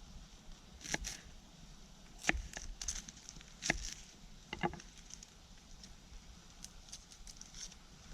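A knife chopping on a wooden board: four separate knocks about a second or so apart in the first half, then only light ticking.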